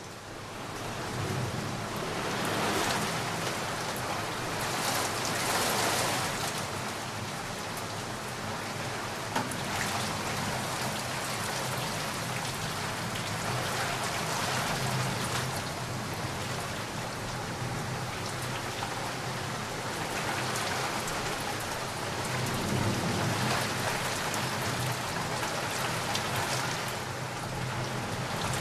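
Steady heavy rain pattering down, fading up over the first two seconds and swelling in waves, with low rolls of distant thunder underneath. A single sharp tap sounds about nine seconds in.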